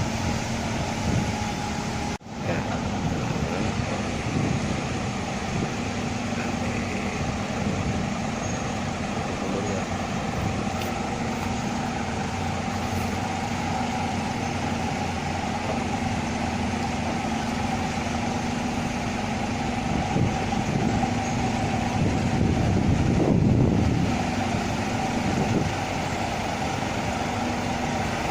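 Scania K320iA articulated bus's 9-litre diesel engine running steadily under road noise. The sound drops out for a moment about two seconds in and swells louder briefly around twenty-three seconds in.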